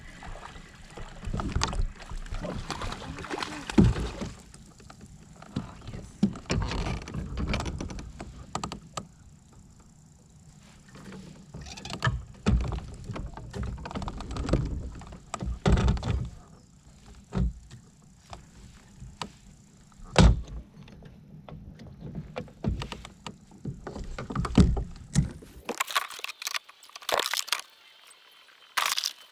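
Irregular knocks and thumps of handling and gear on a fishing kayak, over a low rumble of water and hull noise. Near the end the low rumble drops away and a few sharper clicks remain.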